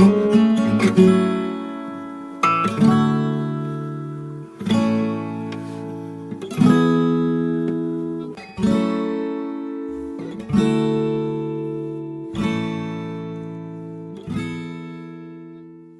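Background music: acoustic guitar strumming slow chords, about one strum every two seconds, each left to ring and die away.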